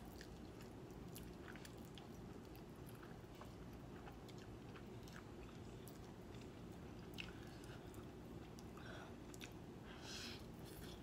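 A person eating spicy instant noodles: quiet chewing with small wet mouth clicks, and a slurp of noodles about ten seconds in, over a low steady room hum.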